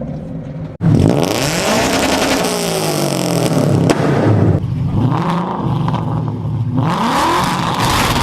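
A low engine rumble cuts off abruptly about a second in, and a performance car's engine takes over, revving hard with its pitch climbing and falling over and over. Sharp crackling pops come from the exhaust, typical of anti-lag and backfire.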